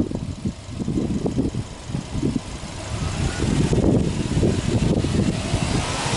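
Subaru Impreza WRX STI Spec C's turbocharged 2.0-litre flat-four (EJ207) running with the bonnet open, a low uneven rumble that grows louder from about halfway through.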